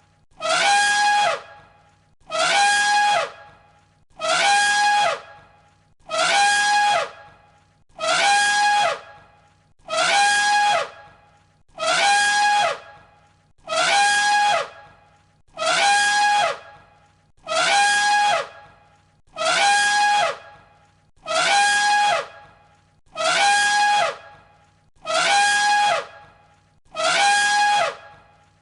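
An elephant's trumpet call played as a loop, the same call repeating about every two seconds. Each call is a held high tone of about a second that drops in pitch at its end.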